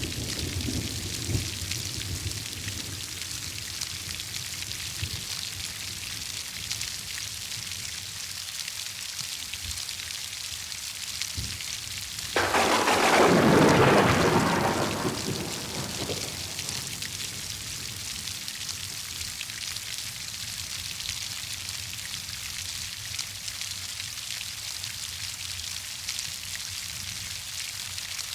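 Heavy rain falling steadily. About twelve seconds in, a loud clap of thunder breaks in suddenly and rumbles away over three or four seconds; the tail of an earlier low rumble fades at the start.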